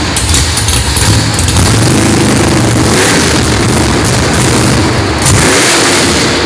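Holden Torana drag car's engine running loud and revving, with a loud hiss coming in about five seconds in.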